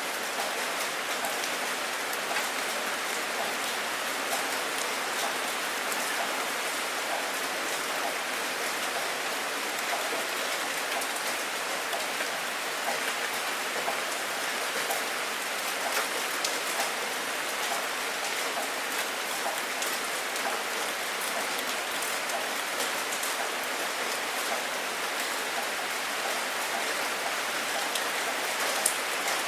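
Steady rain falling, with the patter of individual drops ticking on a hard surface over an even hiss.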